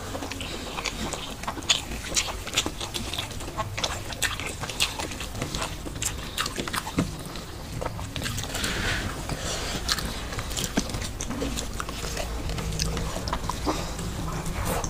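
Close-miked eating: people chewing rice, egg and curry with many irregular wet clicks and lip smacks.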